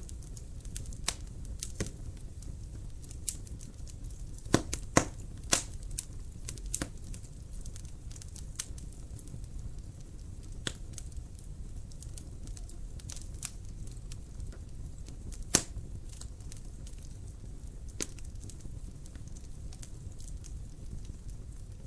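Wood fire crackling in a fireplace: irregular sharp pops and snaps over a low steady rumble of the flames. There is a cluster of louder pops around five seconds in and a single loud pop about fifteen seconds in.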